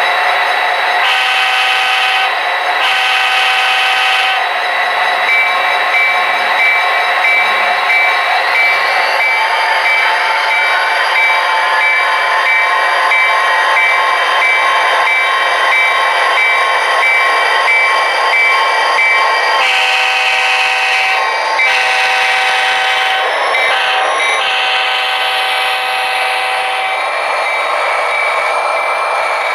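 Sound-equipped model diesel locomotive playing its recorded sounds through a small speaker: the engine running with a steady drone, the horn sounding twice near the start, a bell ringing through the middle while the engine note rises, then the horn blowing long, long, short, long, the grade-crossing signal.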